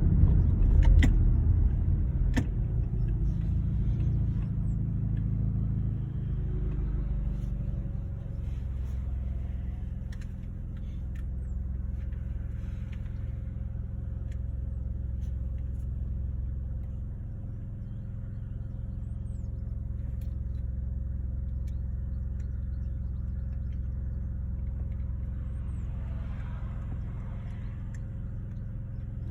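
2009 Honda Accord engine running, loud at first and easing down over the first several seconds to a steady idle, in what the owner takes for an intake and exhaust leak.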